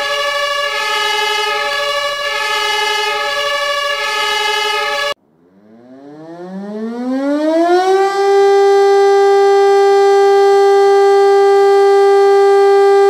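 A loud multi-tone horn blast, slightly wavering, cuts off abruptly about five seconds in. A siren then winds up, rising steadily in pitch over about three seconds, and holds a steady loud wail.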